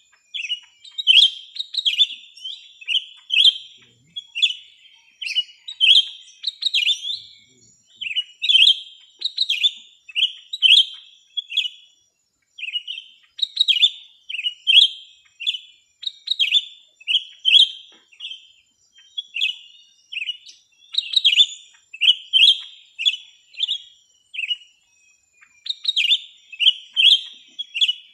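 Small songbird chirping: a continuous run of short, sharp, high chirps, several notes a second in quick groups, with brief pauses between groups.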